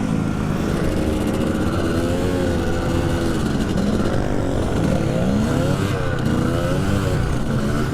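Dirt bike engine running and revving, its pitch rising and falling several times.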